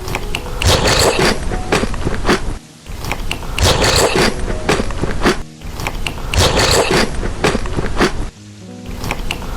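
Loud, close crunching of a person chewing crisp food, in bouts of about three seconds separated by brief pauses.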